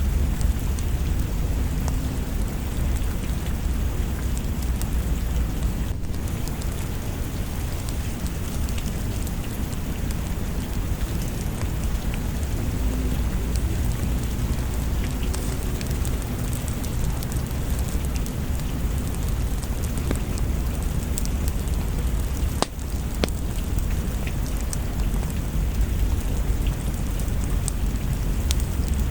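Steady rain with a constant deep rumble underneath, and scattered sharp crackles and ticks from a fireplace fire.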